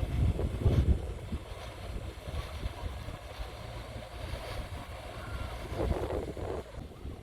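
Wind buffeting the microphone in gusts over a steady low rumble, loudest in the first second and again about six seconds in.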